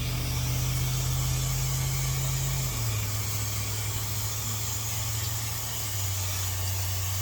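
A motor running steadily, its low hum dropping in pitch twice, over a steady hiss.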